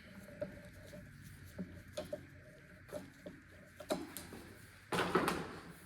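Hand-cranked bead roller forming a bead in a sheet-steel firewall panel: irregular light clicks and knocks as it is worked, with a louder rushing scrape of the metal sheet about five seconds in.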